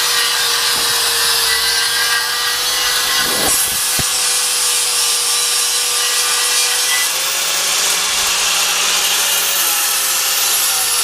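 Electric welding arc running a continuous bead on steel chassis metal: a loud, steady crackling hiss with a faint steady hum, stopping abruptly at the end.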